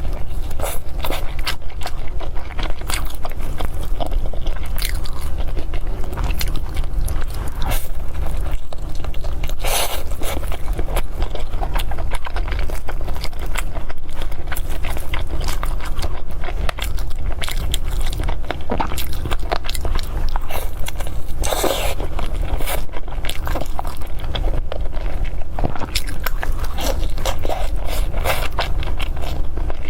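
Close-miked eating of glutinous rice with meat: irregular bites, chewing and small crunches and scrapes, over a steady low hum.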